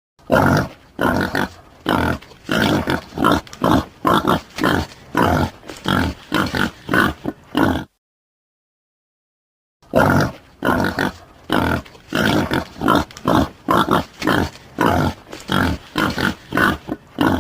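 A boar grunting in quick series of short grunts, about two a second. The grunting cuts off for about two seconds of silence near the middle, then starts again.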